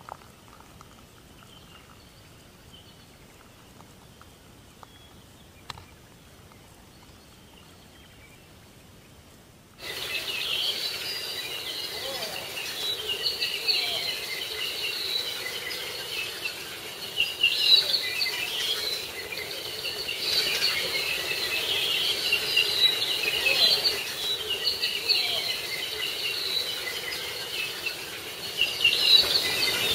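Faint background with a faint high chirring at first. About ten seconds in it jumps abruptly to a loud, dense chorus of insects and birds chirping, a steady high-pitched chatter with frequent brief peaks.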